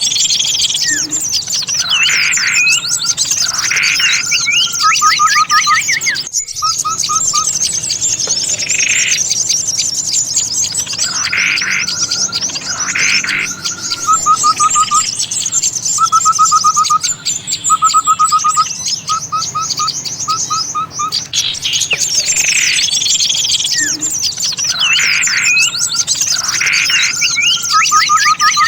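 Bird-lure recording of many small songbirds calling at once: dense, overlapping high twittering with repeated runs of short trilled notes and louder chirps over them. The same stretch of calls comes round again after about twenty seconds, as a looped lure track.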